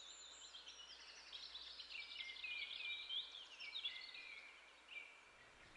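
Faint songbird calls: a string of quick, high chirps and twittering notes that stop about five seconds in.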